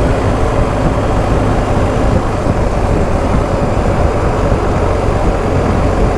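Steady wind rush on the microphone over the BMW R1250 GS Adventure's boxer-twin engine while riding at road speed.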